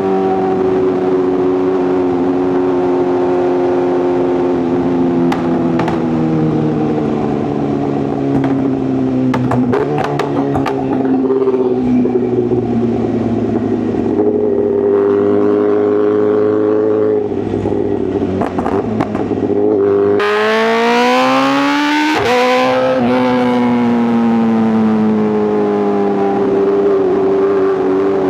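Inline-four superbike engine and exhaust running at highway speed. The note holds steady and sags slowly at first, then about twenty seconds in it climbs sharply up the revs under hard throttle, drops suddenly at a gearshift, and settles back to a steady drone.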